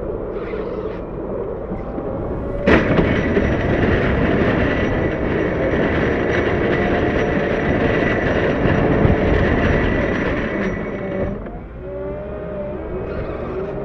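CAT 908 compact wheel loader's engine running. About three seconds in there is a sharp clank, then a loud rough scraping with a steady high ring for about eight seconds, which cuts off suddenly: the steel-edged snow pusher dragging along the pavement. The engine is heard again near the end.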